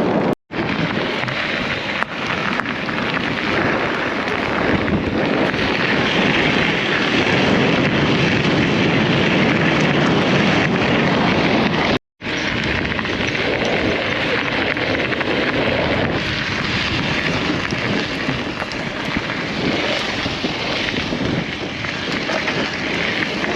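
Steady rushing noise of wind on a chest-mounted action camera and e-mountain-bike tyres rolling over a dirt trail while riding. It breaks off into two brief silences, about half a second in and about twelve seconds in.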